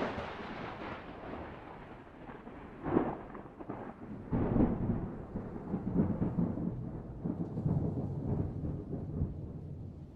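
Thunder: a rolling rumble with sharper cracks about three seconds in and again a second and a half later.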